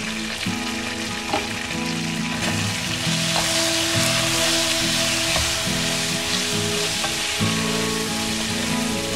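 Chicken pieces sizzling as they fry in oil in a nonstick wok, with a spatula ticking and scraping against the pan as they are stirred. The sizzle grows louder about three seconds in.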